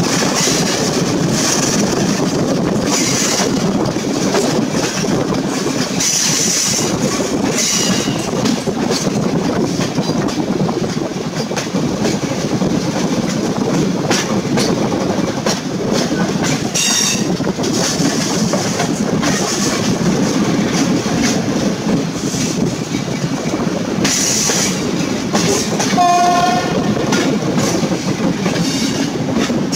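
A passenger train's coaches running on rails, heard from an open coach window: a steady rumble with the clack of the wheels over the track and rushing air. About 26 seconds in, a brief clear high note sounds over the rumble.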